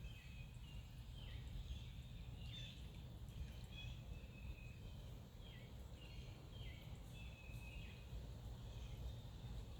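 Faint bird calls: a run of short chirps, each dropping in pitch, repeated every second or so. Under them is a steady low rumble.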